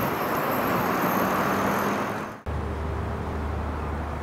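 Freight train of steel-coil wagons rolling past on the rails with a steady loud rumble. About two and a half seconds in it cuts off suddenly, giving way to a quieter, steady low rumble.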